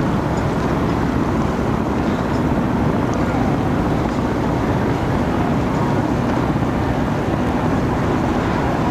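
Steady rushing noise aboard a yacht under way, with wind and water noise on the microphone.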